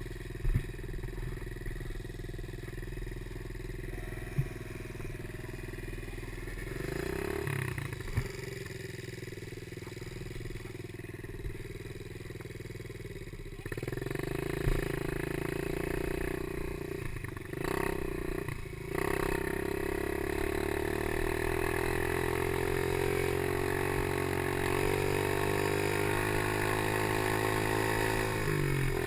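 PY90 small geared motorcycle engine running while ridden, at a steady pitch through the first half with a few sharp knocks, briefly dropping off twice in the middle, then its pitch rising steadily in the last third as it revs up.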